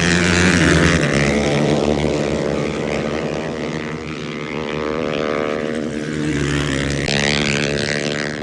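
Racing motorcycles running flat out on a sand beach track, engines revving hard with the pitch stepping through gear changes as the bikes pass.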